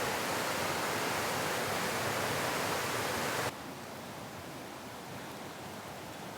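Steady rushing noise, which drops suddenly to a quieter hiss about three and a half seconds in.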